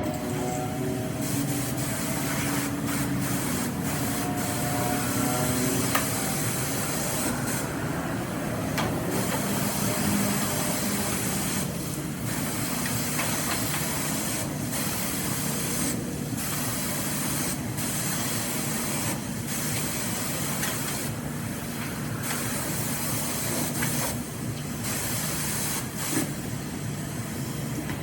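Car-wash high-pressure spray wand blasting water onto a pickup's metal truck bed, a steady loud hiss over a low pump hum, cut off briefly several times as the spray stops and starts.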